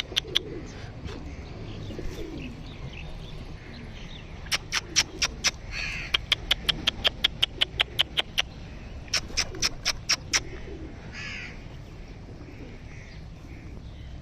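Birds calling: several runs of sharp, rapid clicking notes at about five a second, with a short harsher call near the end.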